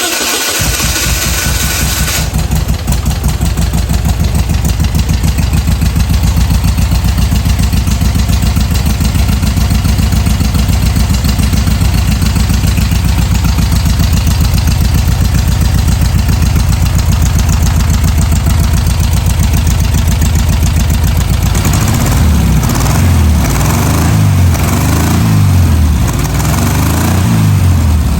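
Air-cooled VW flat-four engine for a 1970/71 Karmann Ghia, freshly rebuilt with its carbs on and started on a stand. It catches and runs steadily, and near the end it is revved up and down several times.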